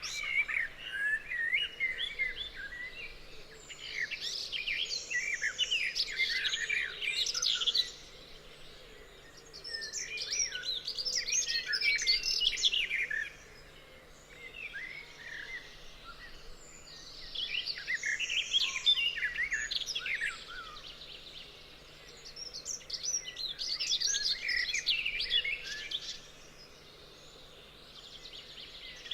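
Songbirds chirping and singing in bursts of a few seconds, separated by short quieter lulls.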